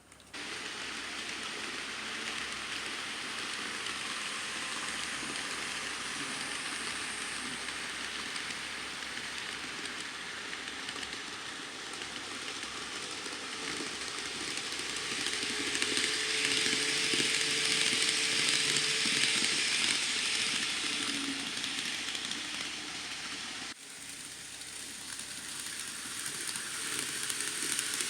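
N scale model Shinkansen trains running on track: a steady rattling hiss of small wheels on rails with a faint motor whine. It swells louder around the middle as a train comes close, drops suddenly near the end, then builds again.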